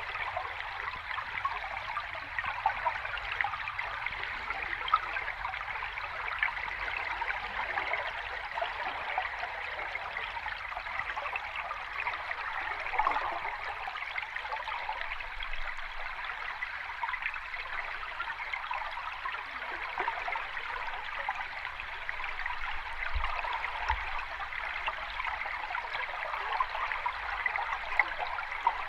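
Running water of a stream or small cascade: a steady, even babble of water.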